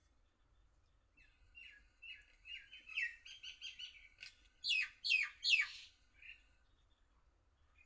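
A bird singing one phrase: a run of quick repeated chirping notes that builds for a few seconds, then three loud downward-sweeping notes and a last short note.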